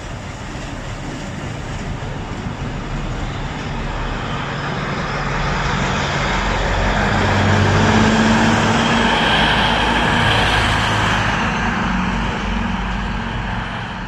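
Rotary snowplow train pulling slowly past at close range: a steady locomotive engine hum with rail noise. It grows louder, is loudest about eight to ten seconds in as the locomotive goes by, then eases off.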